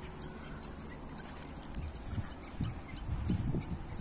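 Birds calling: faint high chirps repeat throughout, with a few low rumbling bursts in the second half.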